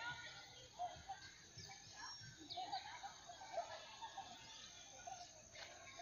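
Faint birds chirping, with short scattered calls over a quiet outdoor background.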